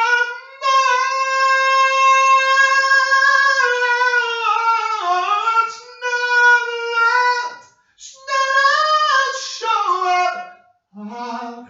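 A single high voice singing unaccompanied in a small room. It holds long, drawn-out notes and breaks off briefly for breath three or four times.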